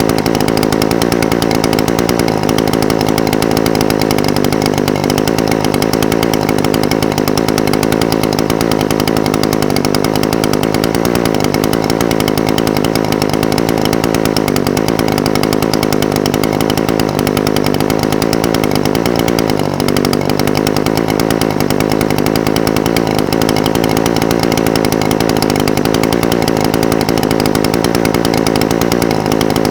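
Echo SRM-420TES brush cutter's two-stroke engine idling steadily, with only a slight wobble in its note.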